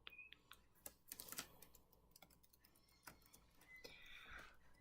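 Faint, scattered clicks and taps from a cockatiel and a parakeet moving about on a dresser.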